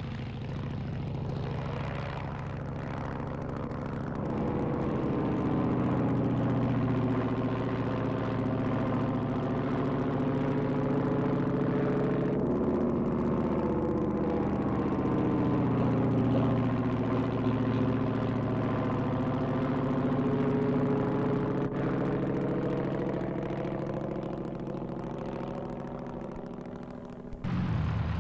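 Hawker Tomtit biplane's Armstrong Siddeley Mongoose five-cylinder radial engine running steadily. Its pitch shifts about halfway through, then sags and rises again, and the sound changes abruptly near the end.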